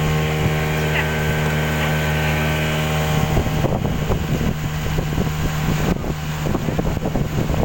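Motorboat engine running with a steady drone. From about three and a half seconds in, irregular short thumps join it.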